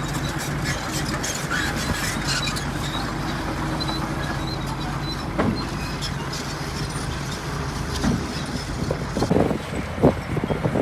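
Heavy earthmoving machinery at work: a diesel engine runs steadily. There is a single sharp knock about halfway, then a run of short clanks and rattles near the end.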